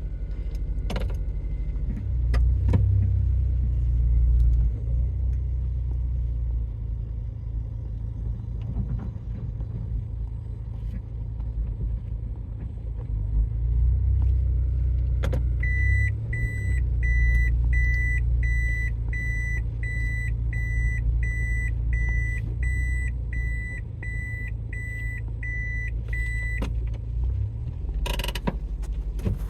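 Toyota bB (QNC21) running on the road with a steady low rumble, in a car whose seized front stabilizer links have been replaced. About halfway in, an electronic warning beeper sounds evenly about one and a half times a second for some ten seconds. A louder burst of noise comes near the end.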